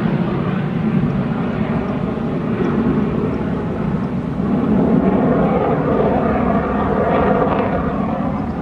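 Fixed-wing aircraft flying by, a steady engine roar that swells about halfway through and eases slightly near the end.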